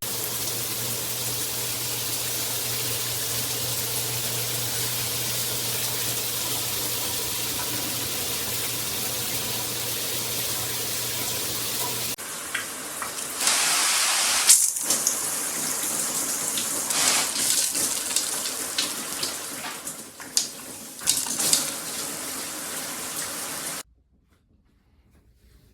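Water spraying from a handheld shower head. For about twelve seconds it is a steady hiss over a low hum, then the spray turns uneven and splashy, and it stops suddenly near the end.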